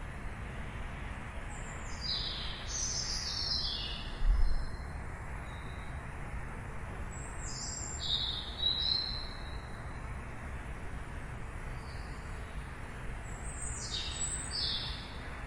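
Songbirds chirping in three short bouts of quick, falling calls, over a steady low background rumble. A brief low thump about four seconds in.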